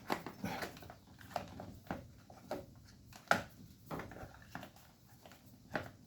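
Light clicks and knocks of parts being handled and fitted by hand on a motorcycle, irregular, with the sharpest knock about three seconds in.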